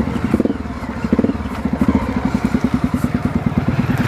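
Off-road trail motorcycle engine running at low revs, chugging with an even, rapid pulsing beat.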